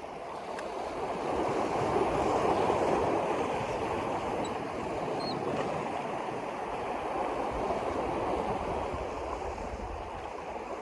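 Steady rush of water, swelling about two seconds in and then easing back.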